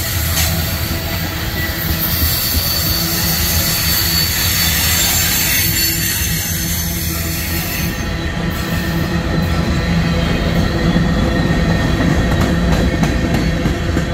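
Freight cars rolling past at close range: a steady rumble of steel wheels on rail with a high wheel squeal. About halfway through, the squeal gives way to repeated clicks and clacks of the wheels over the rail.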